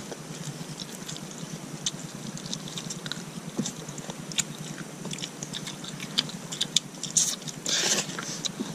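Close-up eating sounds: people chewing mouthfuls of rice and chicken eaten by hand, with many small scattered mouth clicks and a short burst of hiss near the end.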